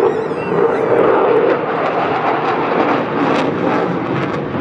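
Eurofighter Typhoon's twin EJ200 turbofan jet engines, a loud, steady rushing jet noise from the display aircraft flying with the power taken back.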